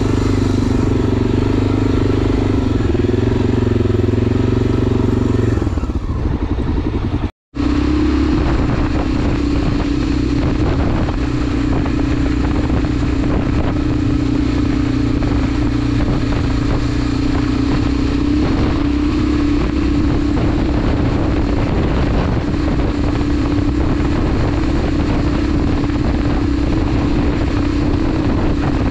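Enduro motorcycle engine running steadily under way, with wind and riding noise. The sound cuts out completely for a moment about seven seconds in, then the engine carries on at a steady pitch.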